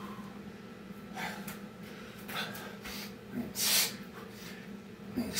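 Hard, heavy breathing of a man worn out mid-set of Navy SEAL burpees: sharp, hissing exhales and gasps every second or so, the two loudest and longest near the middle and at the end. A steady low hum runs beneath.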